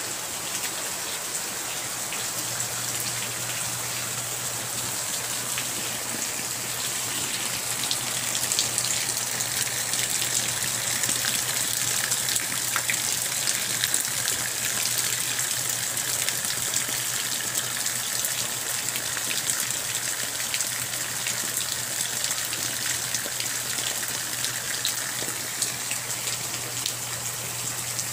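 Steady rain falling, an even hiss with many sharp individual drop hits, a little heavier from about eight seconds in.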